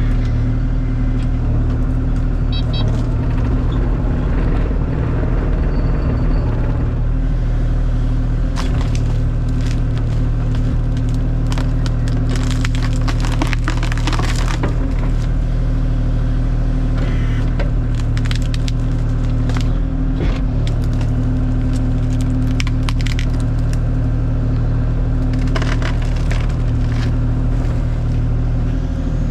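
Kubota KX040 mini excavator's diesel engine running steadily under work, with wood cracking and splintering as fallen limbs and brush are broken and crushed. The cracking comes in clusters, a long one in the middle and a shorter one near the end.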